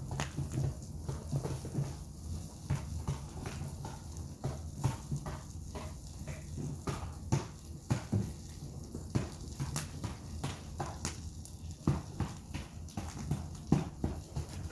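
Bonfire of firewood crackling: irregular sharp pops and snaps, several a second, over a steady low rumble.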